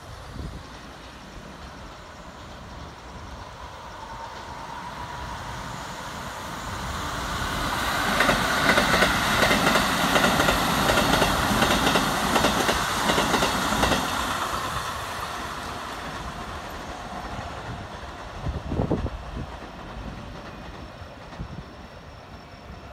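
Keikyu 1000-series electric trains passing each other on a curve. The sound swells and fades as the nearer train goes by, its wheels clacking over the rail joints, with a single louder knock near the end.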